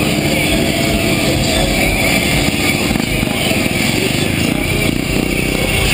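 Motorcycle engines running at a wheelie stunt show, a steady, loud mechanical din without clear rises in pitch.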